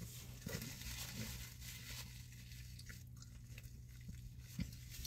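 A person chewing a mouthful of burger, faint mouth and chewing sounds with a few small clicks, over a steady low hum.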